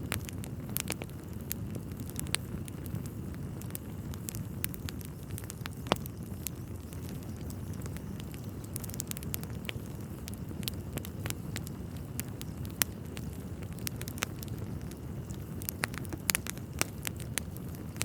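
Wood fire in a fireplace burning with a steady low rumble, with frequent sharp crackles and pops from the burning logs: one loud pop about six seconds in and a flurry of them near the end.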